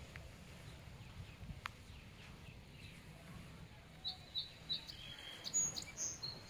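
A small bird chirping: three short high chirps about a third of a second apart, then a quicker, more varied run of calls, starting about four seconds in. A low steady background rumble runs under it.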